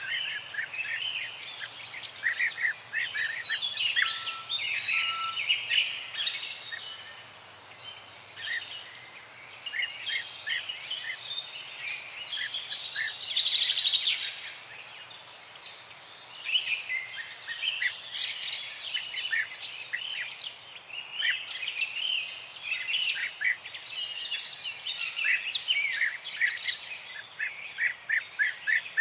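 Several small birds chirping and singing at once in a dense chorus of short overlapping calls and trills. One bird gives a louder, rapid trill about twelve seconds in, and there are short lulls before and after it.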